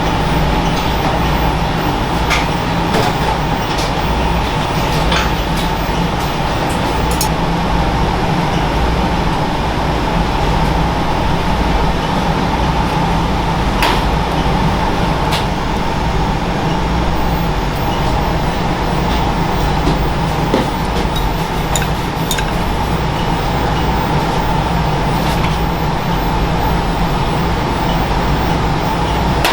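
Steady machine hum with a low rumble and a faint held tone, with scattered light clicks and taps.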